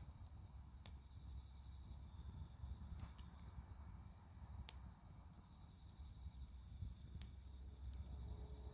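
Dry firewood burning: faint, sharp crackles and pops, about one every second or two, over a low steady rumble.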